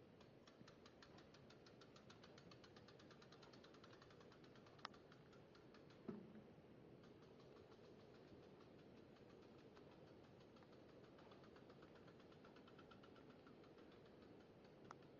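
Near silence: faint room tone with a quick, faint ticking, a single sharp click and a soft thump.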